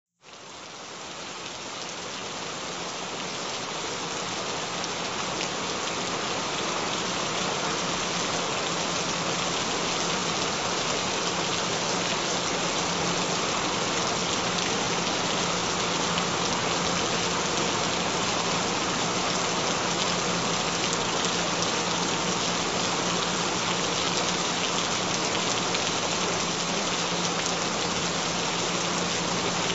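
Steady rain, fading in over the first few seconds and then holding even, with a low steady tone underneath.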